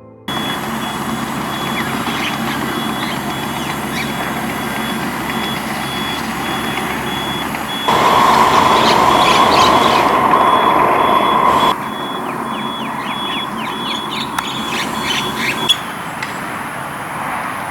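Steady vehicle noise, louder for a few seconds in the middle, with a repeating high beep and short high chirps over it.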